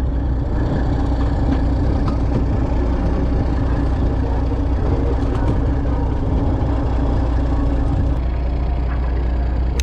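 A fishing boat's engine running steadily: a constant low drone with a steady hum above it.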